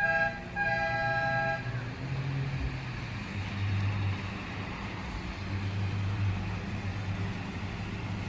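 Two-note train horn sounding a short blast and then a longer one, followed by the low rumble of the train running.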